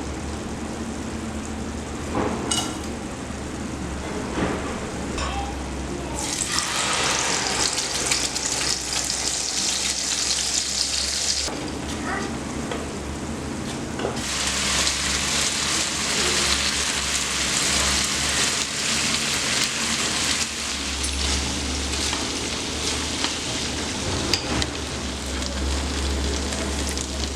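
Food frying and sizzling in a hot pan, the sizzle swelling louder twice for several seconds at a time, with scattered clicks of a utensil against the pan.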